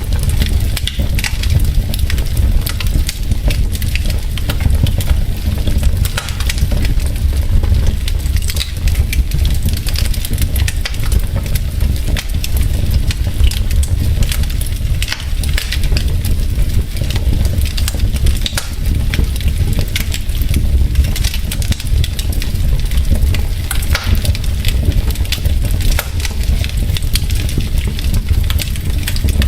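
Wood logs burning in a fireplace, with frequent irregular sharp crackles and pops over a continuous low rumble from the fire.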